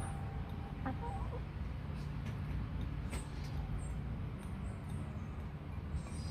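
Backyard hens clucking softly while they feed, over a steady low background rumble.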